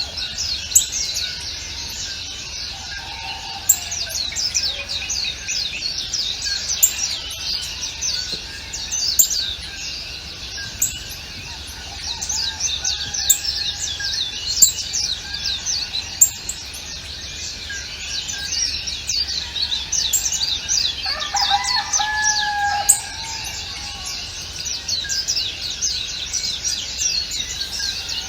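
A dense chorus of many small birds chirping, quick falling chirps overlapping without pause. A lower, longer bird call comes in about three-quarters of the way through, and a few short sharp clicks stand out above the chorus.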